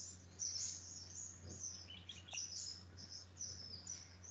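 Faint, high-pitched chirping of small birds, many short chirps a second, over a low steady hum.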